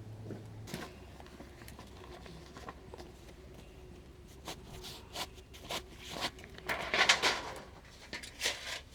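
A run of short, irregular scrapes, rustles and clicks, like gear being handled, loudest about seven seconds in, after a low steady hum that stops just under a second in.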